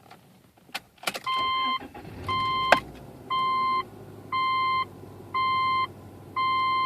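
The 2.5-litre flat-four boxer engine of a 2006 Subaru Legacy 2.5i cranks and starts about a second in, then settles into a steady idle. Over it, a dashboard warning chime beeps six times, about once a second, and is louder than the engine.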